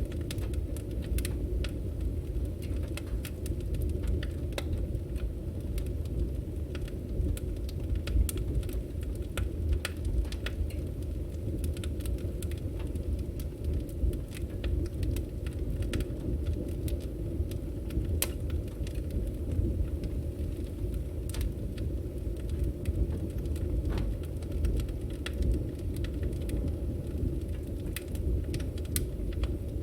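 Wood fire burning: a steady low rumble from the flames with frequent, irregular sharp crackles and pops from the burning logs.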